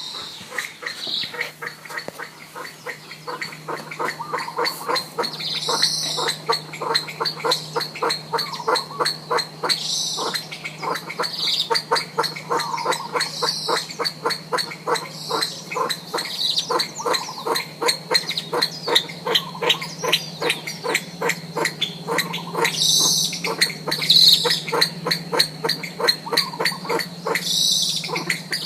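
Green pheasant (Japanese pheasant) calling now and then over a steady, rapid chorus of pulses, several a second, that never stops.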